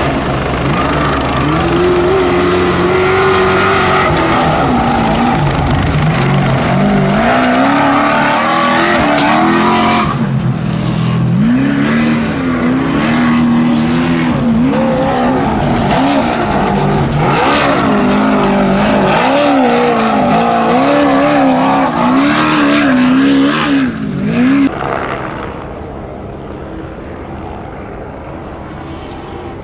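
Trophy Truck race engine revving hard, its pitch rising and falling quickly and wobbling as the throttle is worked over rough ground. About 25 seconds in, the sound cuts abruptly to a much quieter, duller rumble.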